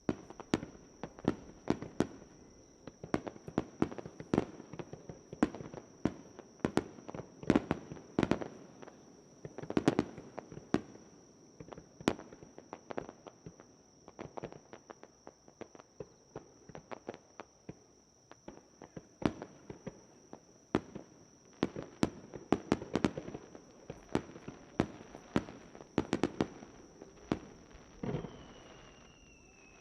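Fireworks display: shells bursting in a rapid, irregular barrage of sharp bangs, with a falling whistle near the end.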